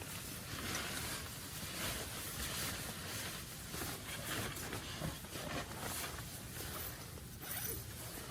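Heavy rain and gusting wind: a dense, steady hiss that swells and eases every second or so.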